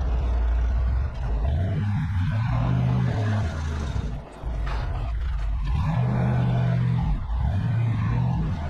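Delivery truck's engine and road noise heard from inside the cab while driving. The engine note steps up and down, with a brief dip about four seconds in, like a gear change.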